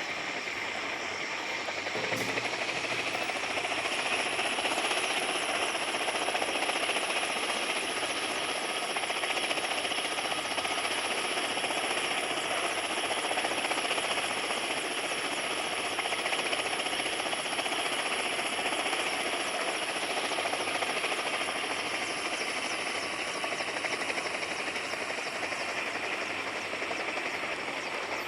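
Helicopter running steadily: a constant noise with a high whine over it and a fast rotor pulse. A single click about two seconds in, after which it grows slightly louder.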